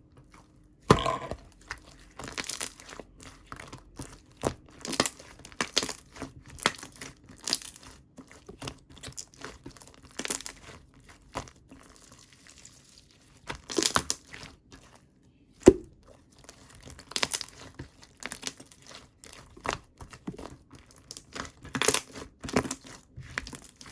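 Thick, chewy slime being pressed, stretched and folded by hand, giving irregular sticky pops and crackles. One sharp, loud pop comes about sixteen seconds in.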